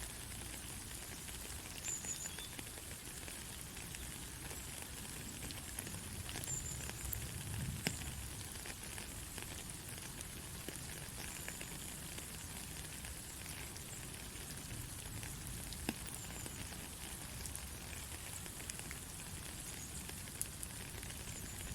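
Steady rain falling: a constant hiss with many individual drops ticking sharply.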